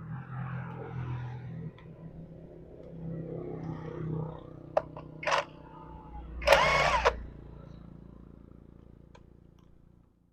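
A motor runs with a steady hum. There are a few clicks, and two short hissing bursts come in the middle, the second louder and with a whistling tone. The hum then winds down slowly and stops near the end.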